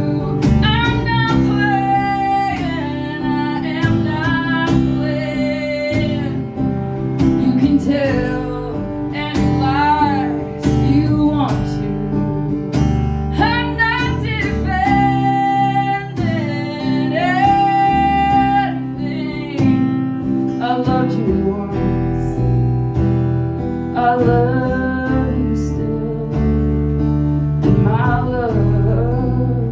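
Live acoustic performance of the song: acoustic guitar strumming chords under a melody line that bends between notes and holds some with vibrato.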